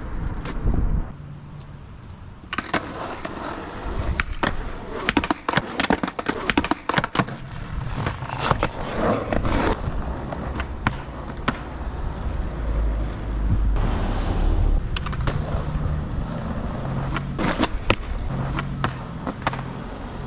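Skateboard rolling on pavement, with repeated sharp clacks and knocks as the board strikes the ground.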